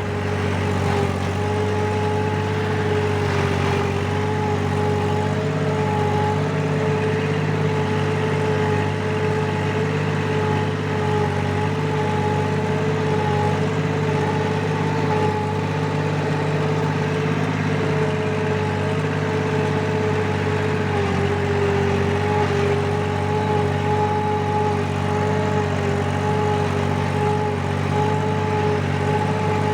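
Four-wheel-drive tractor's diesel engine running steadily while pulling a rotavator through a field, with a steady whine over the engine note.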